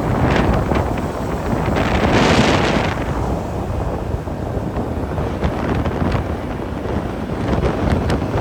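Wind buffeting the microphone while riding a scooter, over a steady din of engine and road noise, with a louder rushing swell about two seconds in.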